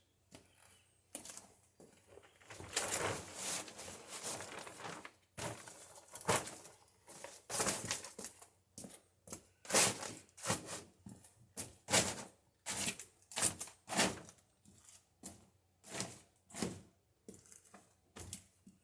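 A tarp crinkling and rustling as it is pulled over a stacked wood pile, with a long rustle a few seconds in. From about halfway on, a run of short, evenly spaced footstep crunches, about one and a half a second.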